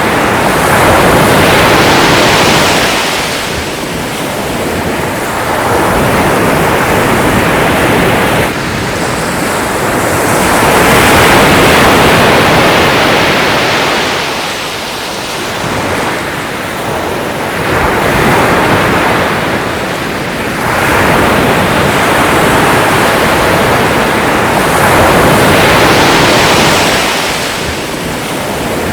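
Sea waves washing onto a shore, a continuous hiss that swells and eases every few seconds as each wave breaks and draws back.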